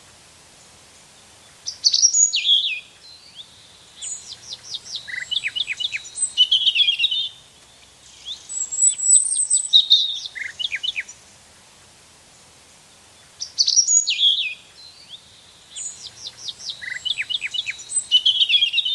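Songbirds singing: phrases of quick, high chirps and short trills lasting one to three seconds, with pauses of about two seconds between some of them.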